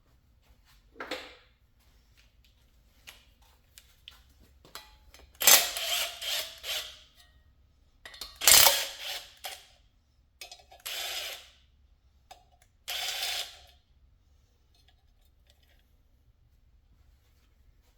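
Several short bursts of metal clattering and scraping as engine parts and hand tools are handled during an engine teardown, with light ticks between them. The loudest bursts come about five and eight seconds in, and it goes quiet for the last few seconds.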